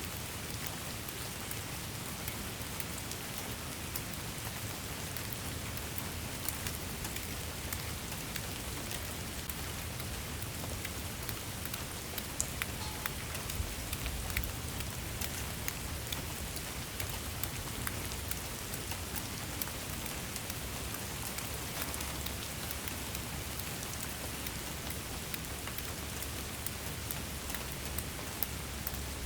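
Steady rain falling, an even hiss with many small drops ticking on a surface throughout.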